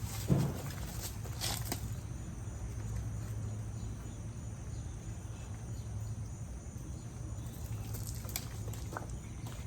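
Outdoor ambience with a steady high insect drone and a steady low hum. A sharp knock comes about a third of a second in, and a few light clicks follow later.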